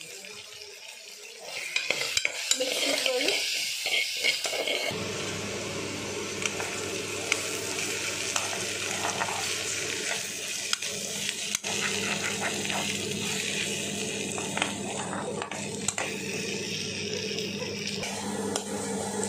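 Sliced okra frying and sizzling in a kadhai while a metal spatula stirs it, scraping and clicking against the pan, from about two seconds in. A steady low hum joins about five seconds in.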